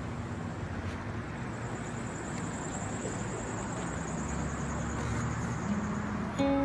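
Steady outdoor background noise with a low rumble like distant road traffic, growing slowly louder. Music comes in just before the end.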